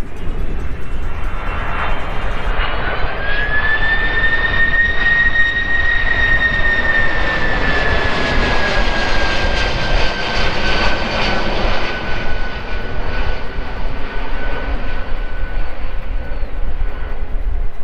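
Boeing 767 freighter's twin jet engines passing low overhead on a low approach. A whine rises in pitch over the first few seconds, holds, then slowly sinks as the plane goes by, under a rush of jet noise loudest midway. Wind rumbles on the microphone throughout.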